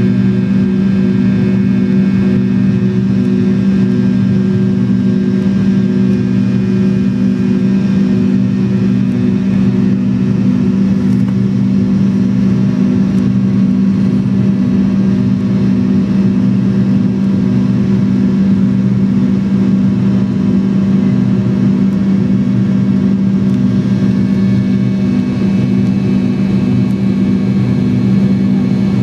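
McDonnell Douglas MD-83's tail-mounted Pratt & Whitney JT8D turbofans heard from inside the rear cabin, running steadily at high power. The result is a loud, even drone with a strong low hum over a rushing noise.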